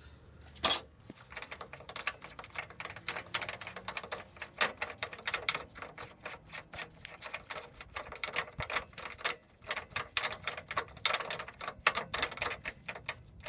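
Hand ratchet wrench clicking quickly and unevenly as a bolt is worked off, several clicks a second, with one louder sharp click under a second in.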